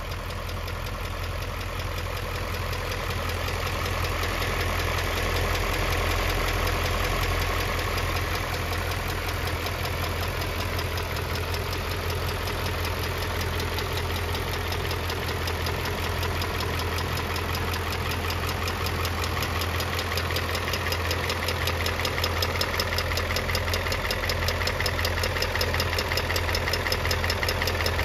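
BMW Z8's 4.9-litre S62 V8 idling steadily with the hood open, heard close to the engine.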